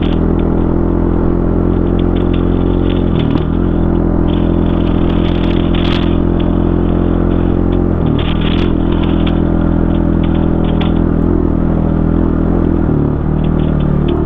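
Single-cylinder four-stroke dirt bike engine running under load on a trail ride, its pitch briefly dropping and recovering three times, about three, eight and thirteen seconds in. Scattered sharp ticks and clatter sound over the engine.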